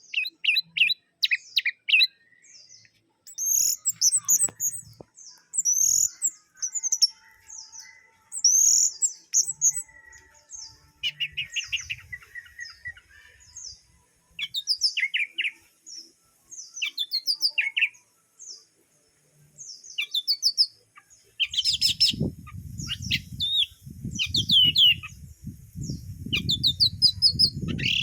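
Orange-headed thrush (anis merah) singing in short bursts of quick, varied high notes with brief pauses between them. A low rumble joins for the last six seconds or so.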